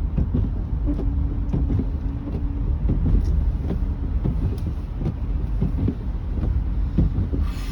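Car driving slowly on a snow-covered road, heard from inside the cabin: a steady low rumble of engine and tyres, broken by many short knocks and bumps.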